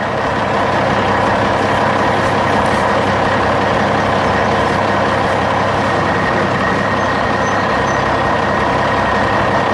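Heavy truck engine running steadily at an even level, with a faint steady whine on top.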